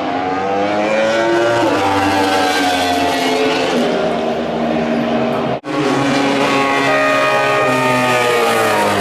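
MotoGP racing motorcycle engines at high revs, pitch rising and falling as the bikes accelerate and change gear. The sound cuts out for an instant a little past halfway.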